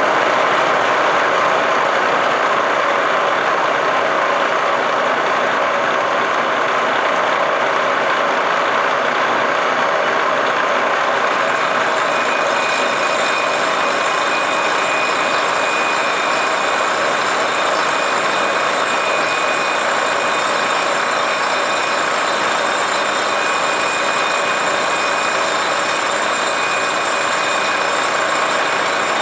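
Milling machine running as an end mill cuts the top of a TIG weld flush on an aluminium Honda CR500 crankcase: a steady mechanical whir and cutting noise, with a thin high whine joining about halfway through.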